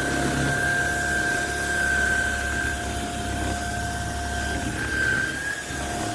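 Vacuum cleaner motor running steadily: a constant high whine over a rush of air.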